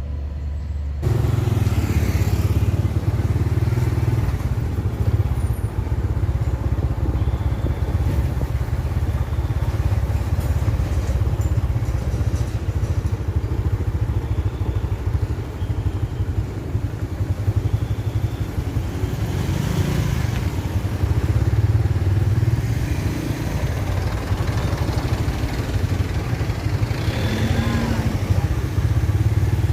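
Road traffic at a level crossing, mostly motorcycle engines running past, over a steady low rumble.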